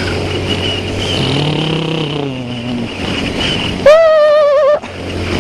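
Riding sound from a Honda CBR125R, a 125 cc single-cylinder four-stroke: engine running under a steady rush of wind and road noise, its note falling in the middle as it eases off. About four seconds in comes a loud wavering high tone for just under a second.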